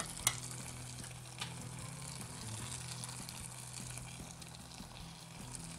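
Achari aloo baingan sizzling steadily in a pan on the burner as it is spooned out, with a sharp clink of the metal spoon about a quarter-second in and a lighter clink about a second and a half in.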